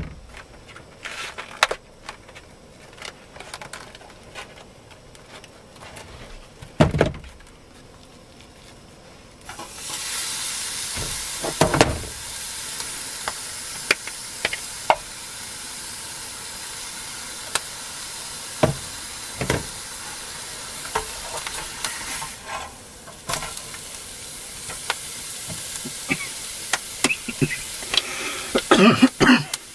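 Food frying in a hot pan: a steady sizzle sets in abruptly about ten seconds in, with scattered pops and a few knocks. Before that there are only quiet clicks.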